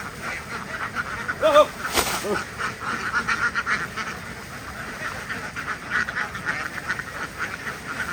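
A large flock of domestic ducks quacking together in a dense, continuous chorus. A few single calls stand out about one and a half to two and a half seconds in, along with a sharp knock at about two seconds.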